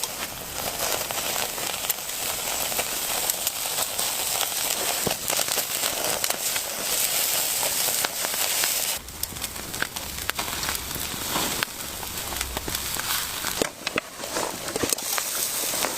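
Dense crackling with many small pops over a steady hiss. It changes abruptly about nine seconds in and again near fourteen seconds.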